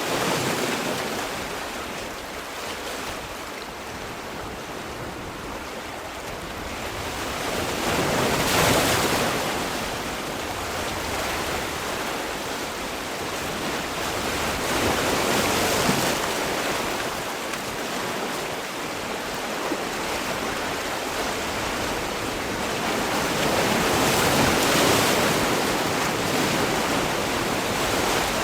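Sea waves washing onto the shore, a steady rush of surf that swells and breaks about every seven to nine seconds.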